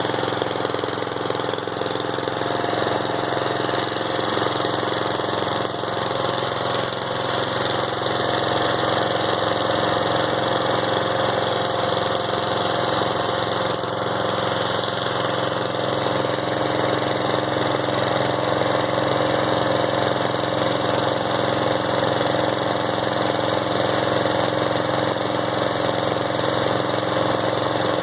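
Riding lawn mower's engine running steadily while the mower is driven, its fuel tank nearly empty so that it is running on fumes.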